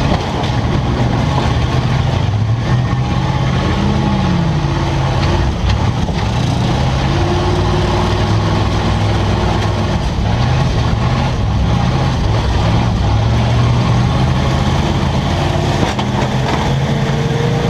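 Several demolition derby cars' engines running and revving together, loud and steady, their pitch rising and falling as the cars push and manoeuvre.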